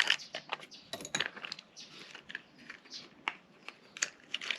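Irregular light clicks, taps and small metallic rattles of tools and small parts being handled during engine work.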